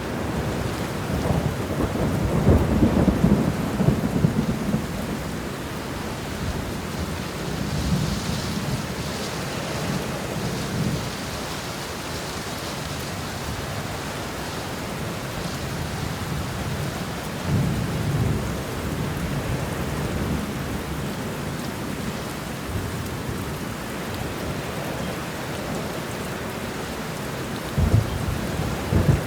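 Steady rain with rolling thunder: low rumbles swell and fade several times, loudest a few seconds in, with a sharper crack near the end.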